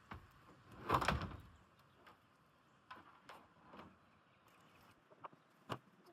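Handling noise: a short scrape or thump about a second in, then a few light knocks and clicks.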